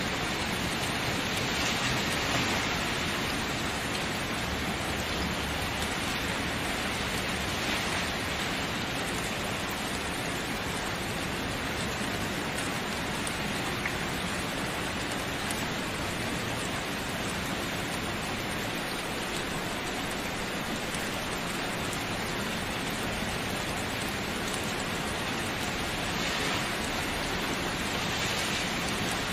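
Steady, even rain falling, a continuous hiss of many drops without distinct patters or thunder.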